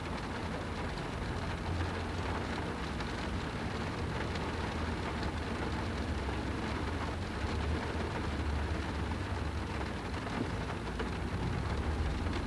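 A car driving in the rain on wet roads: an even hiss of rain and wet tyres over a steady low road rumble.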